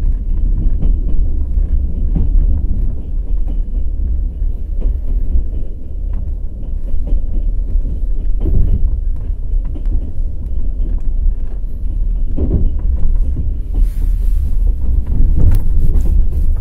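Passenger train wheels running over the rails with a steady low rumble and clatter, with a couple of louder knocks from rail joints, one about halfway through and another a few seconds later.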